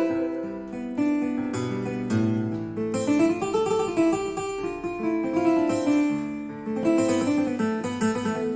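Casio CT-S1 digital keyboard played with a plucked, harpsichord-like tone: a melody over chords, notes starting crisply and decaying.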